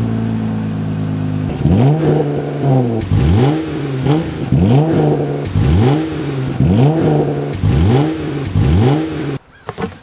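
Jeep Gladiator's V6 engine, with its factory exhaust cut off, idling, then revved in quick blips about once a second, each rising and falling in pitch. This is the loud cut exhaust that the owner says sounds like a Honda Civic.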